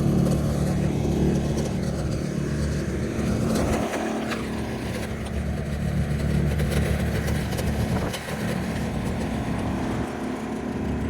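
Engine of a snowblowing machine running steadily, a continuous low engine note whose low end drops out briefly about four seconds in and again around eight seconds.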